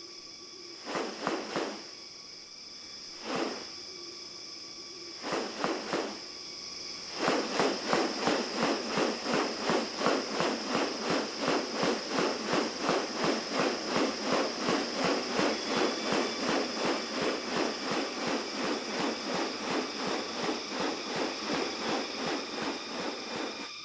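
Rainforest ambience with a steady insect drone. A few scattered clicks come first, then from about seven seconds in a fast, even run of sharp clicks, about three a second.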